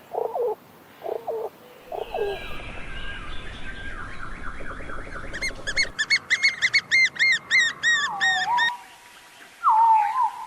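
Bird calls from several birds in turn: a few short low calls, then a run of falling notes over a low rumble, then a fast series of about a dozen high chirps, and near the end two falling whistled notes.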